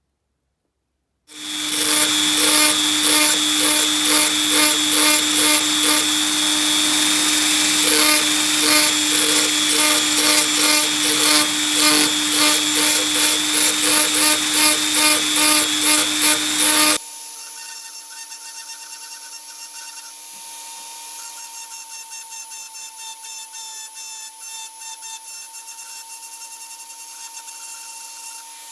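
A power tool starts up and runs loudly and steadily with a regular pulsing. About two-thirds of the way through it drops abruptly to a much quieter, still rhythmic machine sound.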